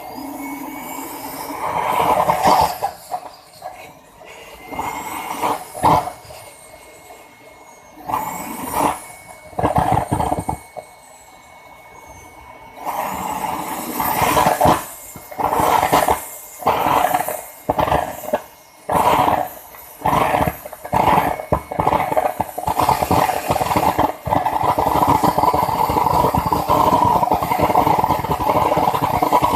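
Small turbojet engine being started: a high whine rising and falling, then a run of loud bursts about a second apart, before it settles into a steady loud run over the last quarter.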